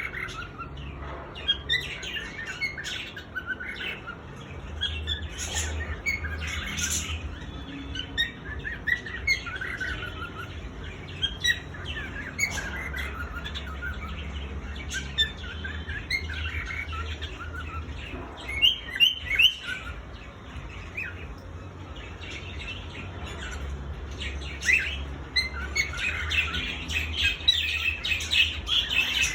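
Male cockatiel singing: a long run of short chirps and whistles, busiest near the end, over a low steady hum.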